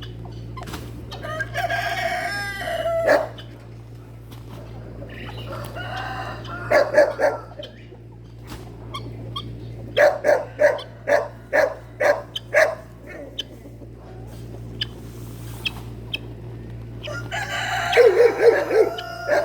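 Farmyard poultry calling: a rooster crowing and chickens clucking, with a run of about six short, evenly spaced calls around the middle. A steady low hum runs underneath.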